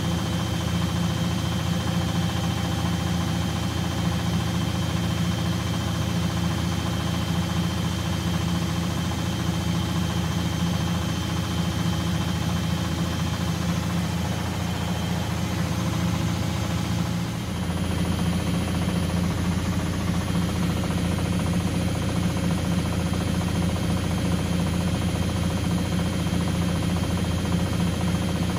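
Front-loading washing machine running steadily on its down programme: a constant motor hum with a thin high whine. About 17 s in, the level dips briefly and the low hum shifts.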